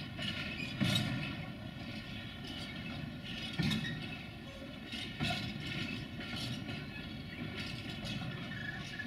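A train running on the track, with a steady rumble and irregular knocks of its wheels over rail joints.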